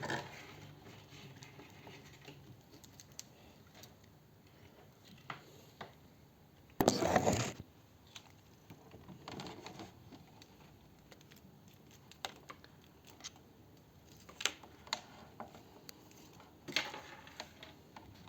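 Faint handling noises of an LED module and its wires being picked up and moved: scattered small clicks and taps, with one brief louder rustle about seven seconds in.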